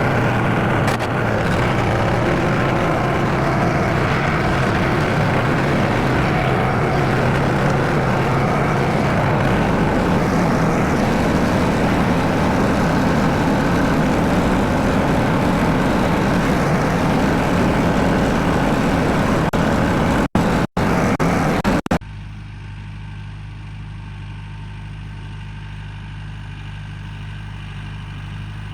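Tractor engine running steadily under a loud rushing noise while spraying the field. About 22 seconds in the sound cuts abruptly to a quieter, steady engine hum.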